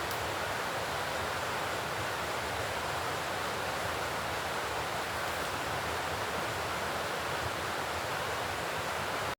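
Steady, even rushing noise with no distinct events, cutting off abruptly at the end.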